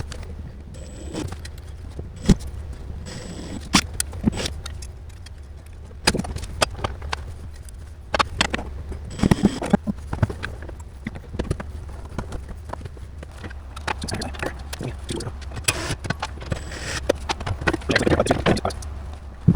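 Irregular clicks, knocks and small metallic rattles of hardware being handled, like parts and screws being moved about, over a steady low hum. A denser cluster of rattling comes near the end.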